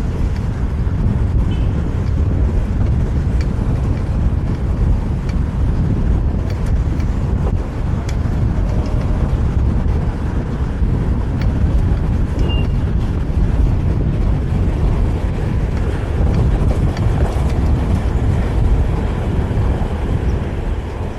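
Steady low rumble of wind buffeting the microphone of a camera riding on a moving fixed-gear bicycle, mixed with road and traffic noise.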